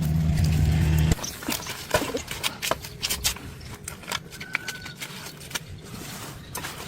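A steady motor hum cuts off abruptly about a second in. Scattered short clicks and knocks follow.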